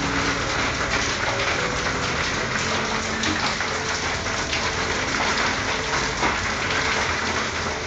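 Steady rain falling on a corrugated tin roof, an even, dense hiss of drops.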